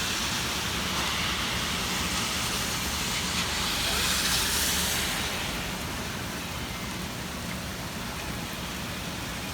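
Heavy rain pouring down, a steady hiss with a low rumble underneath that swells about four seconds in.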